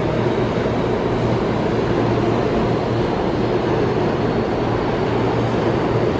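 Alstom-built R160 subway train running by with a steady, loud rumble of wheels on rails over a low steady hum.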